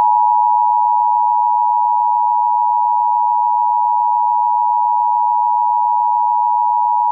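Emergency Alert System attention signal: two close high tones sounded together as one harsh, loud, steady alarm tone, held without a break.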